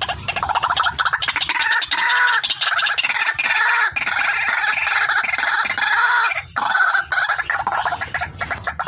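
Female white-breasted waterhen (ruak-ruak) calling in fast, rapidly repeated notes, with a brief break about six and a half seconds in.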